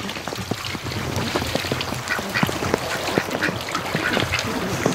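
A flock of domestic ducks quacking, many short calls overlapping at a steady level.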